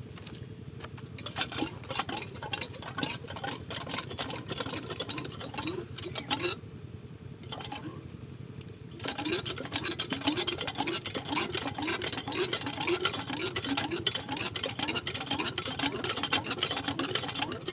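Diesel engine of a water pump clattering with a rapid, even beat, easing off for a couple of seconds about six seconds in, then clattering louder again from about nine seconds.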